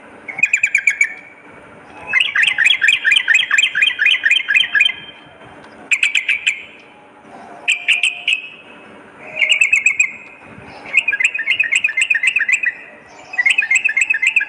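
Yellow-vented bulbul (trucukan) singing: loud phrases of fast, bubbling chattering notes, about eight a second, repeated over and over with short pauses between them.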